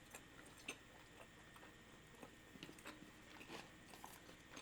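Near silence with faint, scattered small clicks of someone chewing food.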